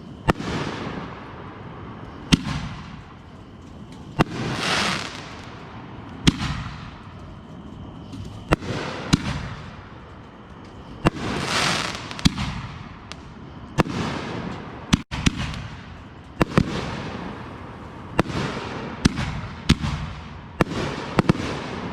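Consumer aerial fireworks going off in a show: a string of sharp bangs, one every second or two, with two longer hissing spells between them.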